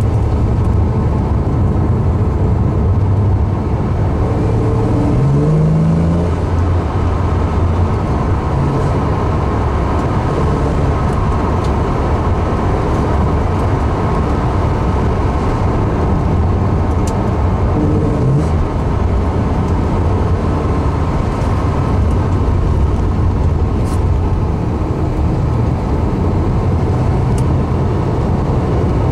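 Porsche 911's flat-six engine and road noise heard from inside the cabin while it is driven on a race track, loud and steady, with the engine note climbing briefly about five seconds in and again around eighteen seconds in.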